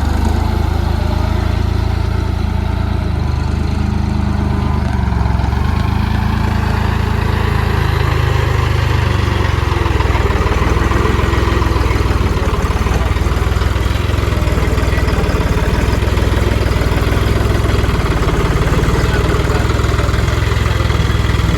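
Tractor diesel engine running steadily at low revs, its note shifting slightly about eight seconds in.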